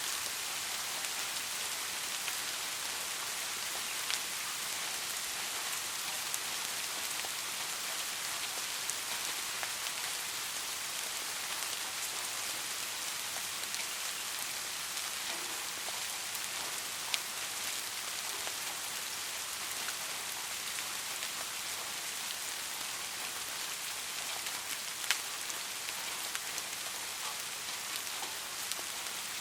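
Steady rain falling on a street, an even hiss with a few louder single drops now and then.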